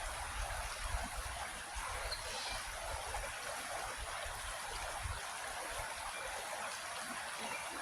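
Creek water flowing in a steady rush, with a faint low rumble in the first few seconds.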